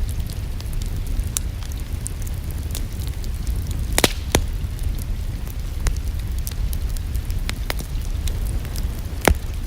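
Fireplace fire crackling: scattered sharp snaps over a steady low rumble, with a few louder pops about four seconds in and near the end.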